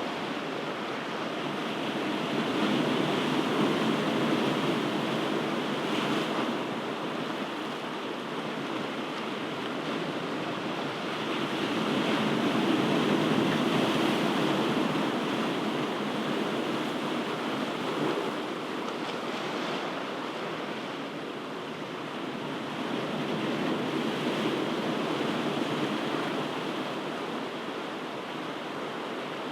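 Ocean waves breaking on a shore in a continuous wash, swelling and easing in slow surges about every ten seconds.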